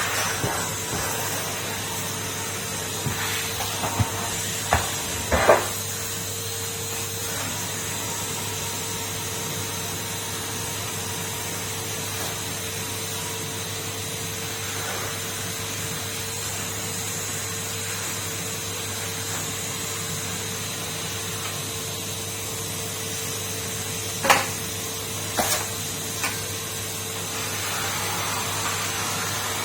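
Numatic Henry canister vacuum cleaner running steadily, a constant rushing drone with a steady whine. A few short knocks come around four to five seconds in and again near the end.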